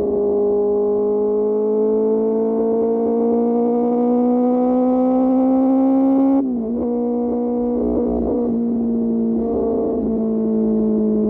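QJ Motor SRK600 inline-four engine through an SC-Project exhaust, pulling with its pitch slowly rising for about six seconds. It then drops suddenly and runs on at a lower, fairly steady pitch.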